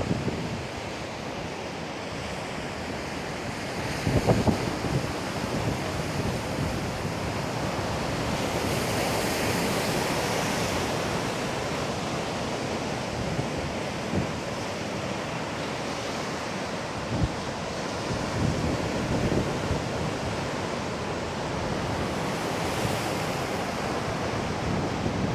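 Typhoon-driven sea waves breaking and washing on the beach in a continuous noise, swelling twice. Wind gusts buffet the microphone now and then with low thumps.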